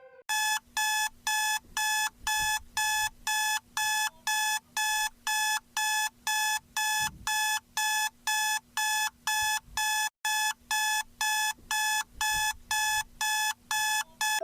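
Electronic emergency alert tone: a single pitched beep repeating evenly, about two beeps a second, with one brief break partway through.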